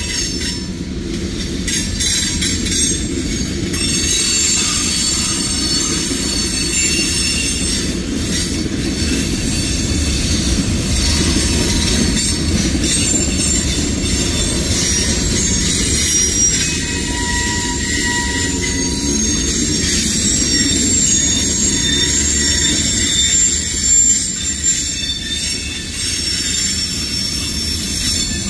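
Freight cars of a CSX manifest train, tank cars and boxcars, rolling past on steel wheels: a steady low rumble from the rails with high-pitched wheel squeal over it.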